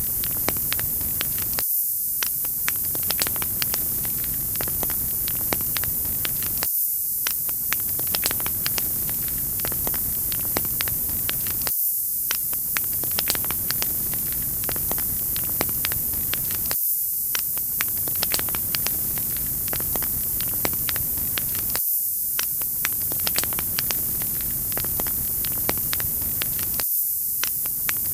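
Wood fire crackling: a steady hiss with frequent sharp pops and snaps. The same short stretch repeats about every five seconds, as in a looped recording.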